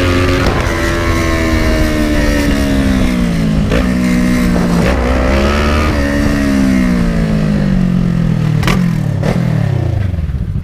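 Kawasaki ER-6n's 649 cc parallel-twin engine running loud under way, rising in pitch and dropping sharply at gear changes about 3.5 and 5 seconds in, then falling steadily over the last few seconds as the bike slows, over a steady low rumble.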